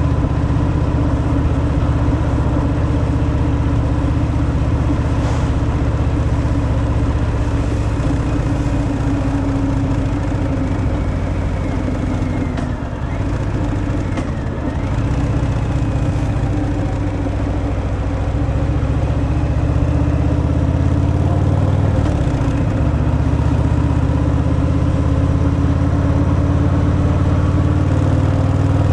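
Harley-Davidson Fat Boy's air-cooled V-twin through its stock exhaust, running steadily under way. About halfway through the pitch falls and the sound dips briefly, as on easing off or a gear change, then it settles back to a steady pull.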